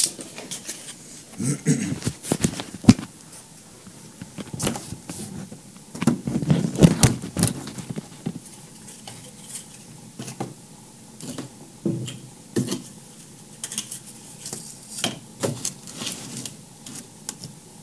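Cut cardboard template pieces being handled and trimmed: irregular taps, clicks, scrapes and rustles, with a sharp click at the start and a busier stretch of scraping about six seconds in.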